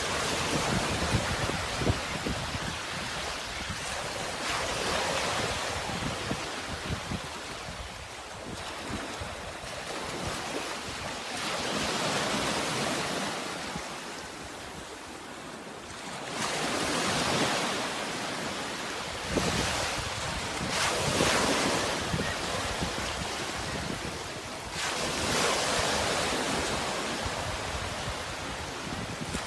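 Sea waves washing ashore, a steady surf noise that swells and falls back every few seconds.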